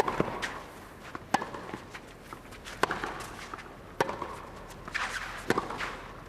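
Tennis rally: racquets strike the ball back and forth, a sharp pop about every second and a half, five hits in all.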